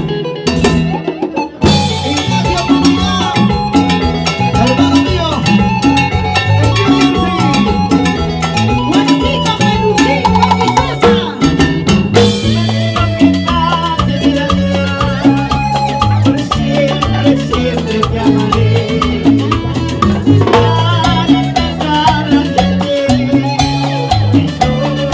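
Live salsa band playing, with a moving bass line, drums and percussion under the melody instruments. Just after the start there is a brief break in the percussion before the full band comes back in.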